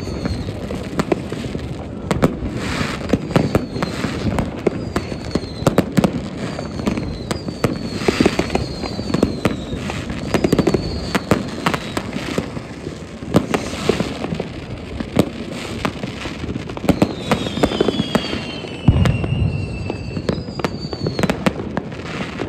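Dense New Year's Eve fireworks: rockets, batteries and firecrackers popping and banging almost without pause, with several whistles that fall in pitch, and a heavier deep boom near the end.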